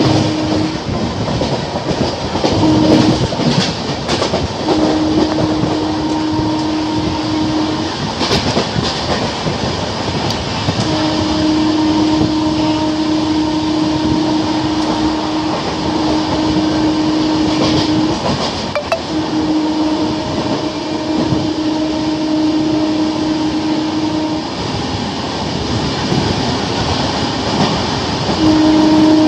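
Indian express train running at speed over points through a station, wheels clattering on the rails. A steady low locomotive horn sounds repeatedly in long blasts of several seconds, holding one pitch throughout.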